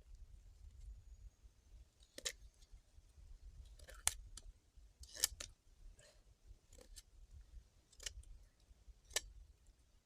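A series of about six sharp clicks, irregularly spaced a second or so apart, over a faint low rumble.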